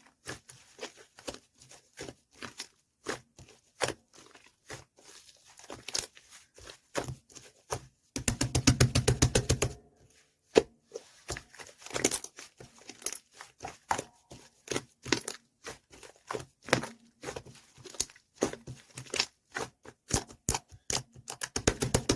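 Handmade squishy toy being squeezed and pulled by hand, its sticky surface giving irregular crackles and tearing clicks. A fast, dense run of crackles comes about eight seconds in, and another near the end.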